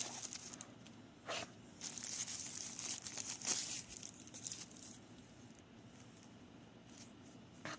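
Packing material being pulled apart and unwrapped by hand: a short rustle, then a few seconds of dense crinkling rustle that dies away.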